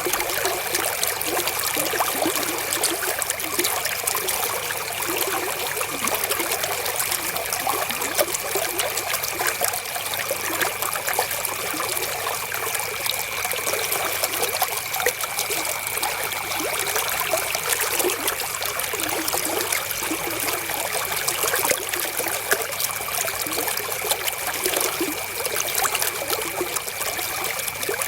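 River water flowing and trickling steadily over stones, a constant splashing babble.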